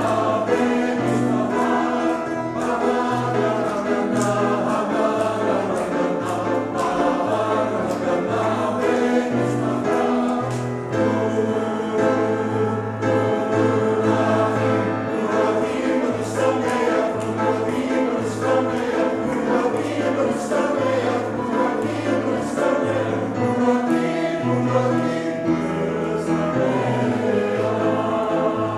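A church choir singing a song with instrumental accompaniment, a bass line moving from note to note underneath the voices.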